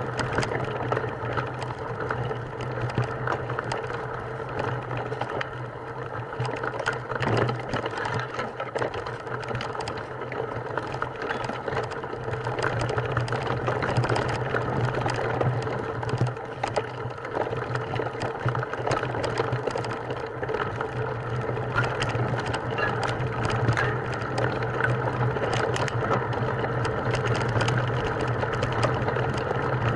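A small motor running steadily, with rattling and clicking throughout.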